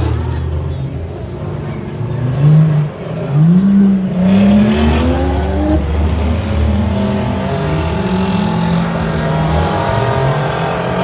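Race trucks' engines running hard on a dirt track, several engines revving up and down as they pass. A loud rising rev comes about two and a half to four seconds in.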